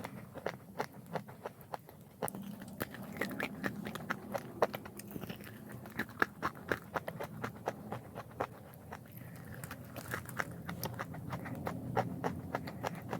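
A person biting and chewing crunchy chalk close to the microphone: rapid sharp crunches, several a second, over a steady lower chewing sound that grows louder about two seconds in.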